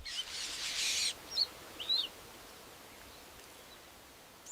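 About a second of high hiss, then two short high bird chirps about half a second apart, over a faint steady background.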